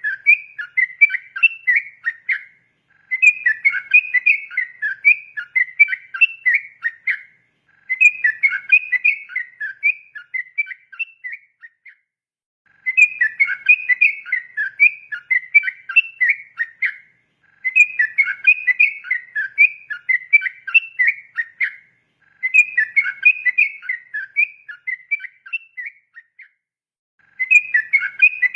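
Trucukan (yellow-vented bulbul) singing its long, rapid 'ropel' song of quick bubbly whistled notes. The song comes in phrases of about four seconds, each followed by a pause of about a second, repeated six or seven times.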